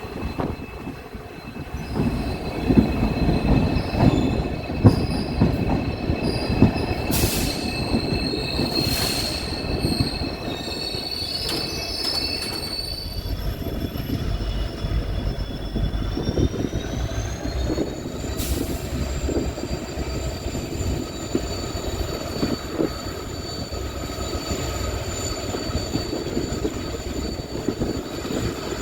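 Passenger train running, with rumble and clatter from the wheels on the track and a thin high-pitched wheel squeal over them. The squeal fades about halfway through, then returns and slides upward in pitch.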